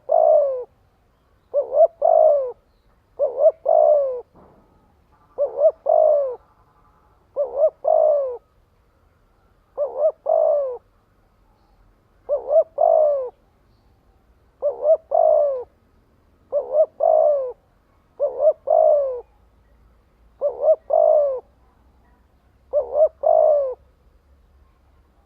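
Spotted dove cooing in a quick, regular run of phrases, about one every two seconds. Each phrase is a short double coo followed by a longer coo that falls in pitch: the fast decoy call used to stir other doves into calling.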